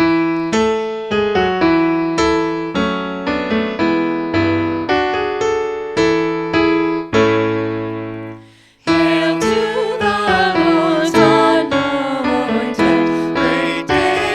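Piano or electric keyboard playing a hymn introduction in struck chords. A held chord dies away about eight and a half seconds in, and the hymn then starts with fuller accompaniment, and what look like voices joining.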